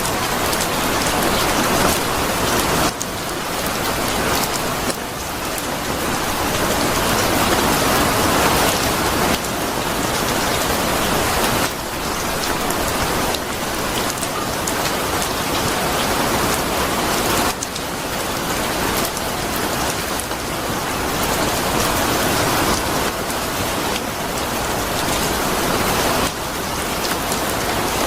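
Steady heavy rain falling on a surface, a dense even hiss. Every few seconds its level shifts slightly and suddenly.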